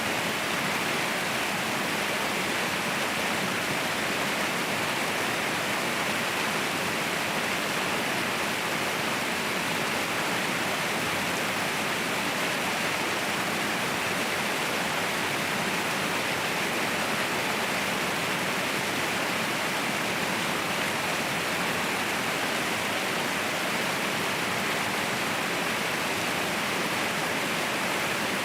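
Waterfall rushing: a steady, unbroken roar of falling water, strongest in the upper middle of the range, with no change over the whole stretch.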